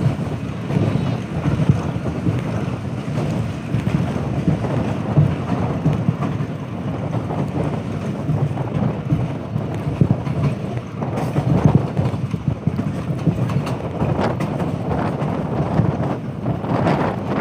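Diesel-hauled passenger train running along the line: a steady low rumble of the moving train with wind noise on the microphone, and a few brief knocks around the middle and near the end.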